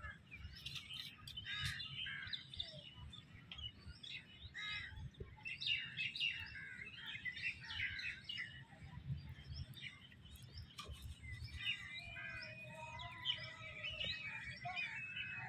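Birds chirping and calling over and over, with longer, steadier pitched calls near the end, over a steady low rumble.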